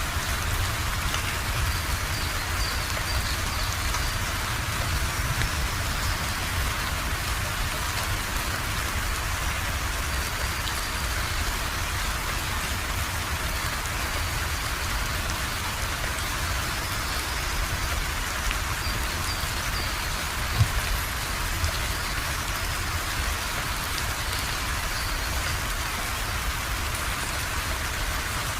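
Steady rain falling, an even, continuous hiss of drops with one sharper tap about two-thirds of the way in.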